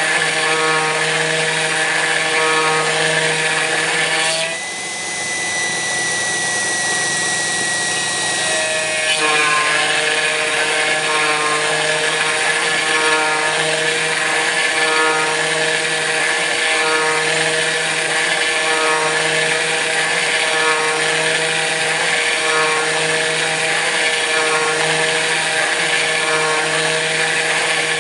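Kress FME-1050 router spindle running on a CNC mill while it cuts aluminium, a steady whine with a cutting noise that swells and fades about every two seconds as the cutter works along its path. For a few seconds early on the cutting noise drops away, leaving a single steady whine, before the regular pulsing cut resumes.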